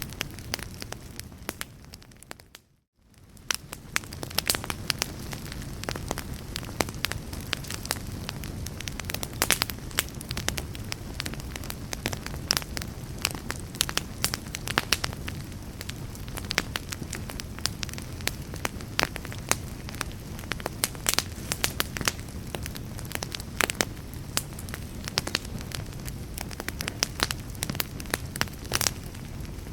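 A fire crackling, with many sharp pops and snaps scattered irregularly over a steady low rumble. The sound fades out briefly about three seconds in, then comes back.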